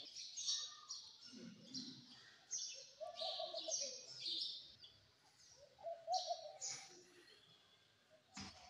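Birds chirping in short, repeated bursts, with a single click near the end.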